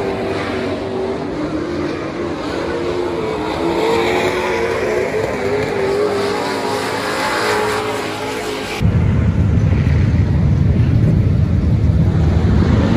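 Race car engines running at a dirt oval, their pitch wavering up and down. About nine seconds in, the sound cuts abruptly to a louder, deeper engine rumble.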